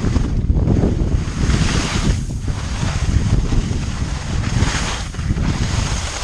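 Wind buffeting the microphone of a skier heading downhill, under the hiss of skis on snow that swells and fades about every second and a half with each turn.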